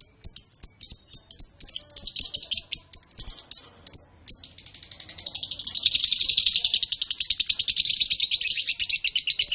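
Canary singing: a string of quick high chirping notes, then, from about halfway, one long rapid trill lasting about five seconds.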